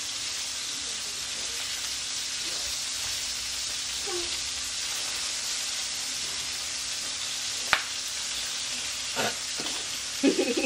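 Lamb chops sizzling steadily in a frying pan, with one sharp click about three quarters of the way through.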